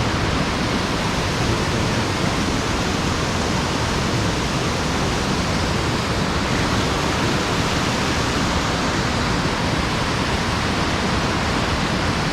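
Mountain-stream water spilling over a sabo (erosion-control) dam, a steady, even rush of falling water.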